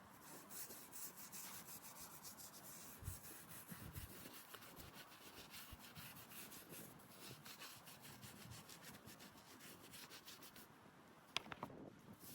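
Faint, rhythmic scrubbing strokes of a brush on a headstone. They stop about ten and a half seconds in, and a single sharp tick follows.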